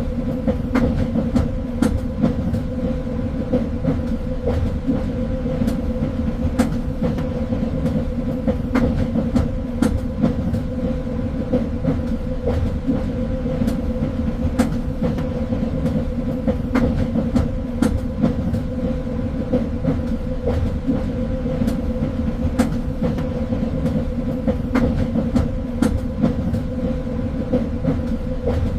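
A train running on its track: a steady low rumble and hum, with frequent irregular sharp clicks and knocks from the wheels and rails.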